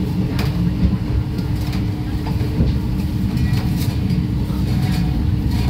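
Passenger train carriage rolling along the track, heard from inside: a steady low rumble and hum with irregular clicks and knocks from the wheels over rail joints and points.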